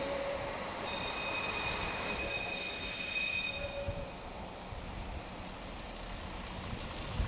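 AN8800-series diesel railcar rolling slowly, its wheels squealing in several steady high tones that fade out about halfway through. A low rumble of the running gear and engine stays underneath.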